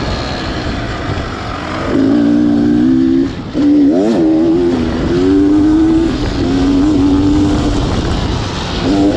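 Beta Xtrainer 300 two-stroke dirt bike engine running under changing throttle. The pitch holds steady for stretches, and there is a brief drop and then a quick rev that rises and falls about four seconds in.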